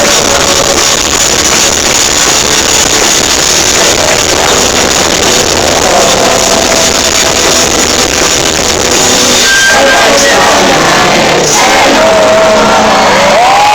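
Live rock band playing loud, recorded from the crowd on a phone, with the audience shouting along.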